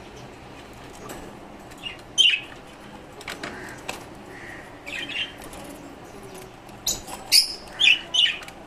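Caged lovebirds and finches calling: short, shrill chirps and squawks in scattered bursts, one loud call about two seconds in and a quick run of the loudest ones near the end.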